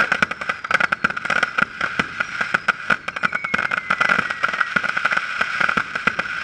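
Fireworks barrage firing: rapid, irregular pops, bangs and crackles of shots and bursts over a steady hiss, with a faint falling whistle about three seconds in.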